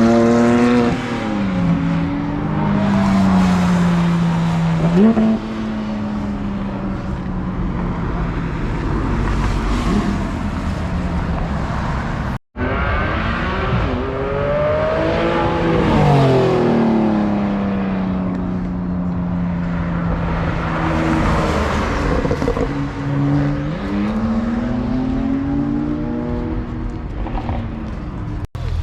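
Mitsubishi Lancer Evolution X's turbocharged four-cylinder engine under way, its pitch sinking as the revs fall and then sweeping back up several times. The sound drops out for an instant about twelve seconds in.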